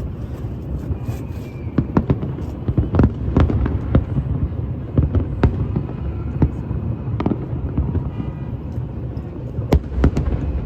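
Fireworks going off: an irregular string of sharp bangs and pops, several a second, over a low rumble.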